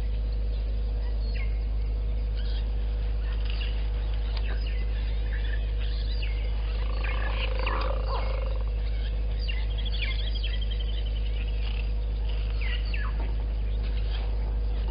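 Wild birds chirping and calling, with a rapid trilled call about two-thirds of the way through, over a constant low hum.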